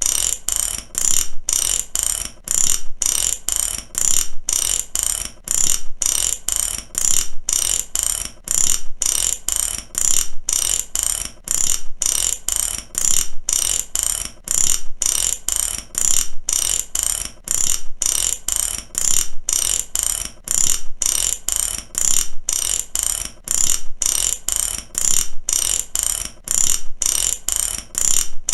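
Mechanic's ratchet wrench clicking, its pawl snapping over the gear teeth in quick repeated runs about once a second.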